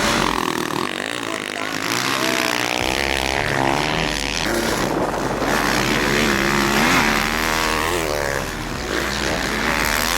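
Motocross bike engines revving, their pitch rising and falling repeatedly as the riders work the throttle and shift.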